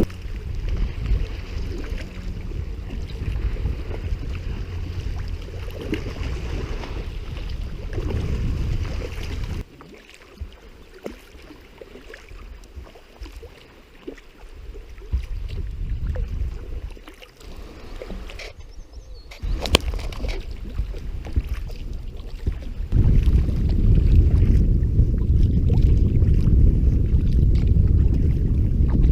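Wind buffeting the microphone over water sounds from a sea kayak under way. The wind rumble drops away about ten seconds in, leaving quieter water and paddle sounds, and picks up strongly again near the end.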